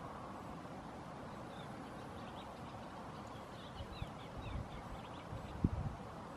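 Faint small-bird song: a quick run of short, falling chirps over a steady outdoor hiss. A few low thumps on the microphone follow in the second half, one louder than the rest.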